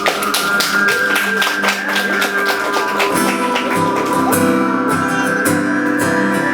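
Live instrumental music: a guitar strummed in a fast, steady rhythm, with lower notes filling in about three seconds in.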